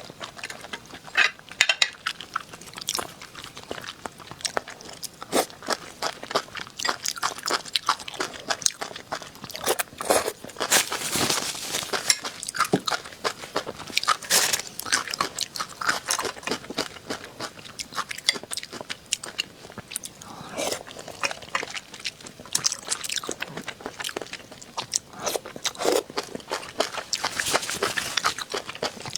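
Close-up eating sounds: a person biting and chewing food, with many irregular crunches and wet smacks.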